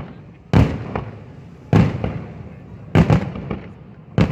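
Aerial firework shells bursting in a steady sequence: four loud bangs about a second apart, each followed by a rolling echo, with a few smaller pops between them.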